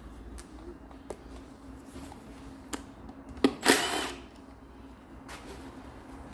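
A power tool runs in one short burst of about half a second, about three and a half seconds in, just after a brief blip. A few light tool clicks and a steady low hum sit around it.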